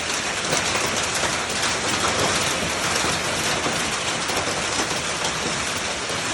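Heavy rain and hail pelting down on surfaces, a dense steady patter of many small hits.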